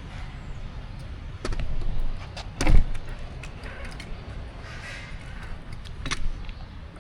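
Street noise heard from a moving bicycle: a steady low rumble with scattered clicks and rattles, and one sharp knock a little under three seconds in that is the loudest sound.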